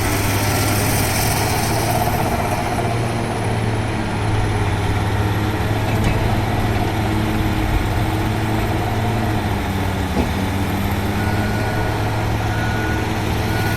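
Heavy diesel engine of a mining excavator running steadily, a continuous low hum with little change in level.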